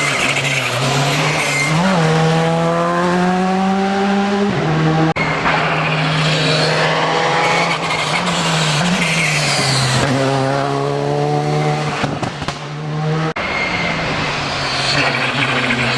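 Rally car engine revving hard under acceleration, its pitch climbing steadily and then dropping sharply at upshifts about four and a half and thirteen seconds in. Tyre squeal comes in at times.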